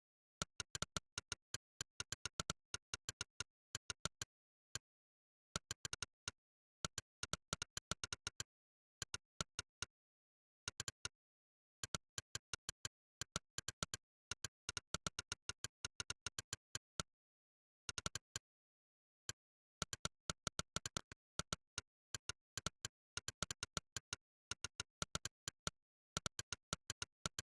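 Monkeytype's 'click' keystroke sound effect: fast runs of short, sharp clicks, one per key pressed, several a second. The runs come in bursts broken by brief pauses, with dead silence between clicks.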